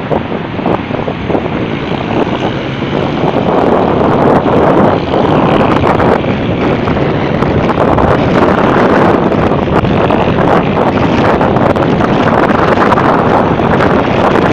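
Strong storm wind buffeting the microphone: a loud, steady rushing that grows louder about four seconds in.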